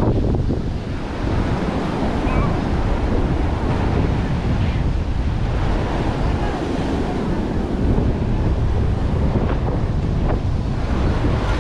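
Surf washing on a beach with wind buffeting the microphone, a steady rush of noise heaviest in the low end.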